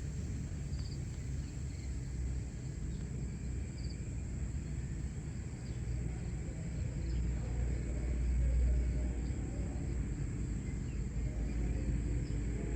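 Early-morning outdoor ambience: a low steady rumble that swells a little around the middle, under a thin, steady high tone and a few faint chirps.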